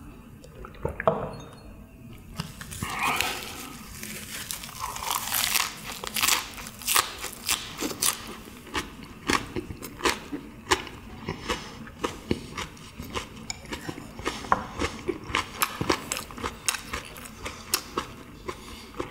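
Close-up chewing of a mouthful of leaf-wrapped pressed meat (pyeonyuk): steady crunching, smacking and crackling that begins about two seconds in after a soju shot and goes on as many quick, crisp clicks.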